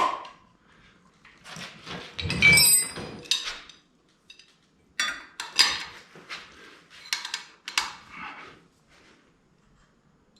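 Metal clinks and clanks of a small-block Chevy distributor being lifted, turned and worked down into the block until its shaft seats on the oil pump drive. The knocks come irregularly, several with a brief metallic ring, the loudest about two and a half seconds in.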